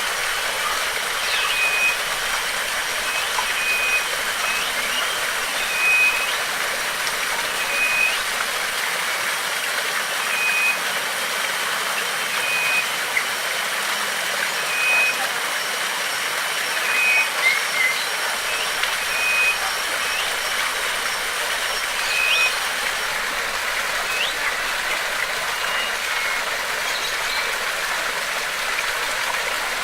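Rushing water of a stream or small waterfall, running steadily, with a bird repeating a short high note about once a second and a few brief chirps over it.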